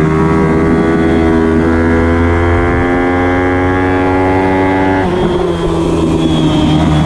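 Ayrton Xtrema pit bike's single-cylinder engine running hard at high revs, its pitch held high and creeping up, then breaking off and dropping suddenly about five seconds in before pulling on at a lower pitch.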